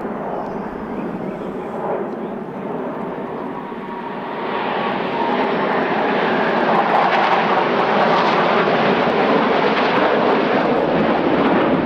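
Jet roar of Sukhoi Su-35S fighters in flight, their twin turbofan engines growing louder about four seconds in and holding at full loudness as the jets pass close.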